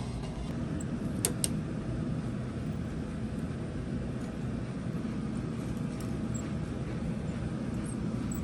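Steady low rumble of a vehicle in motion, with two short clicks about a second in.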